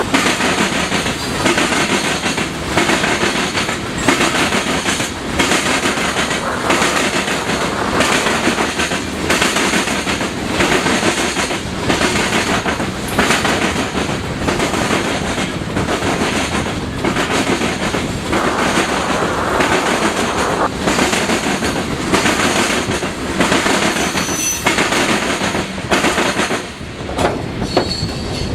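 A train rolling past with its wheels clacking over rail joints in a steady rhythm, a little more than once a second. A couple of brief, high wheel squeals come near the end as the clacking thins out.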